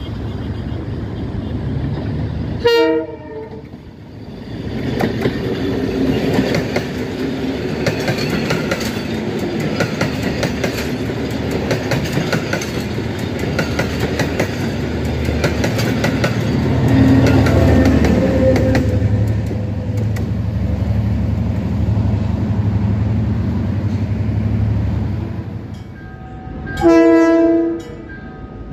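A passenger train's locomotive horn sounds briefly about three seconds in. The coaches then pass close by with a steady rumble and rapid clicking of wheels over the rail joints. Near the end a diesel locomotive's horn sounds loudly for about a second.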